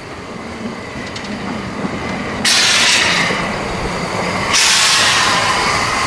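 Narrow-gauge steam locomotive drawing closer, with two loud blasts of hissing steam: the first starts suddenly about two and a half seconds in and lasts about two seconds, and the second starts near four and a half seconds and keeps going.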